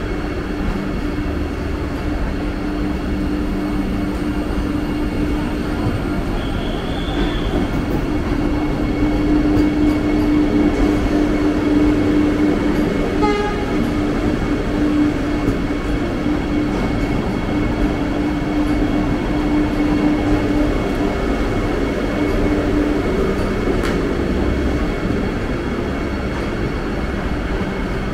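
Vande Bharat Express electric train set humming steadily over a continuous rumble, the hum strongest through the middle.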